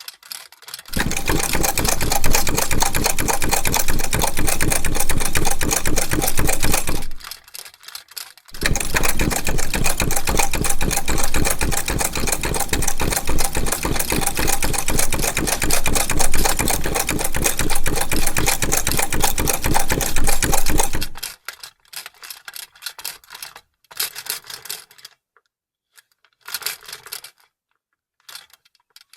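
Vintage sewing machine stitching at a steady speed in two long runs, about six and then twelve seconds, with a short stop between. Near the end come only a few brief clicks and short bursts of the mechanism.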